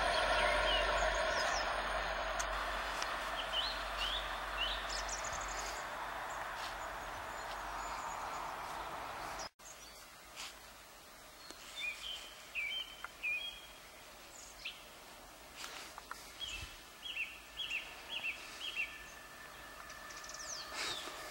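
A DB class 442 Talent 2 electric train running away into the distance, its rolling noise fading over about nine seconds. After an abrupt break, small birds chirp in short repeated phrases over a quiet woodland background, and near the end a faint rising rush as another train approaches.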